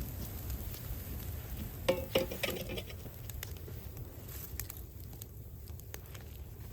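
Burning scrap wood crackling with scattered sharp pops over a low rumble, with a brief ringing clatter about two seconds in.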